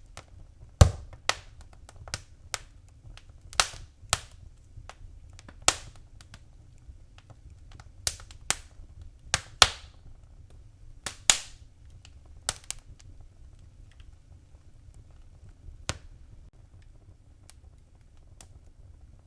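Fireplace fire crackling, with sharp pops and snaps that come thick and fast through the first dozen seconds and grow sparse after. A faint low rumble of the flames runs underneath.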